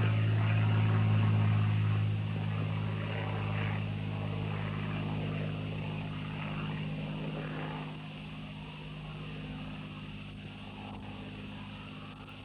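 Aircraft flying away, its low, even engine drone fading steadily.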